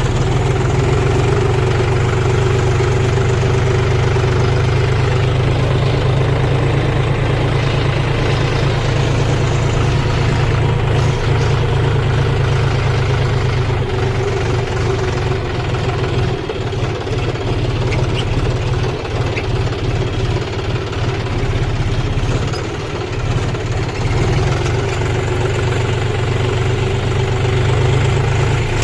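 Kubota combine harvester's diesel engine running steadily with a low, even hum and machinery noise, dipping slightly in loudness for a moment about two thirds of the way through.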